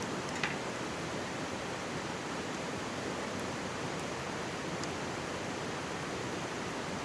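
Steady rush of a shallow mountain stream, with a wood campfire crackling over it: one sharp pop about half a second in and a few fainter snaps later.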